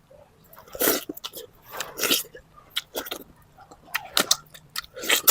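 Close-miked chewing and wet mouth smacks of a person eating chicken from tinola soup, in short bursts about once a second.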